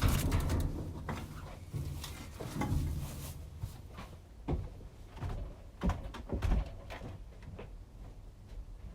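Irregular knocks, thumps and rustling of a person climbing over clutter and moving things about, loudest at the start, with several separate thumps in the middle.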